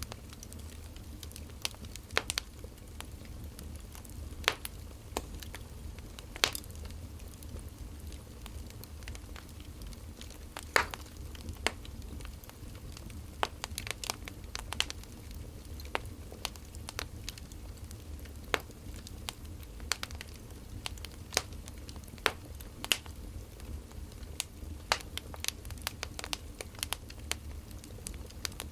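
Burning firewood crackling, with irregular sharp pops and snaps of varying loudness over a low steady rumble.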